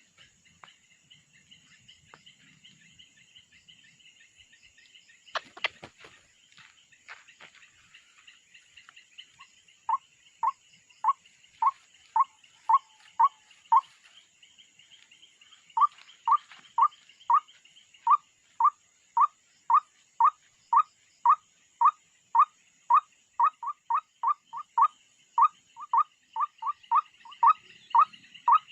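A bird's call, a short note repeated at a steady pace of about two a second, starting about a third of the way in, with a brief pause before it carries on and quickens slightly near the end. A steady high hiss runs underneath, and a single clatter comes about five seconds in.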